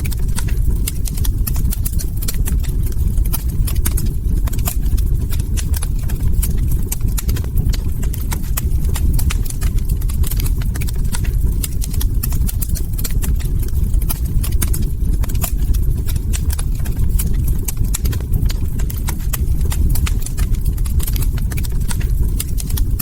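Log fire burning in a fireplace: dense, irregular crackles and sharp pops of burning wood over a steady low rumble of the flames.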